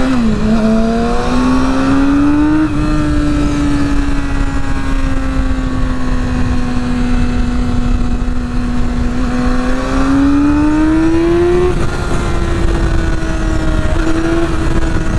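Yamaha R6's inline-four engine running under way: its pitch drops and climbs again with a gear change at the start, holds steady for several seconds, climbs about ten seconds in, then levels off, over a steady low rushing noise.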